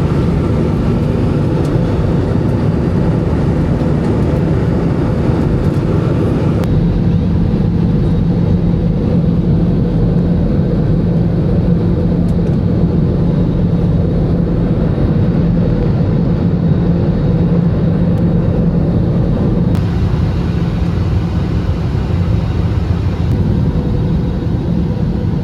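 Steady vehicle drone from inside a moving vehicle: engine hum with a low road rumble, unbroken throughout.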